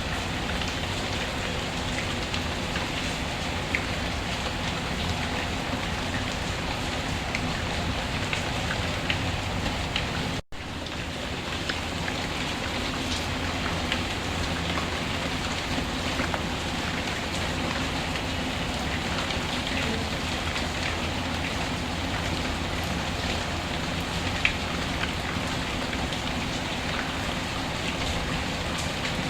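Steady rain falling, with scattered faint sharp ticks over an even hiss. The sound drops out for an instant about ten seconds in.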